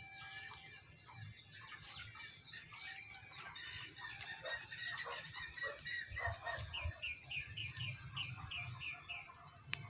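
Birds calling: a mix of short chirps and calls, with a quick run of about eight repeated chirps, roughly four a second, near the end.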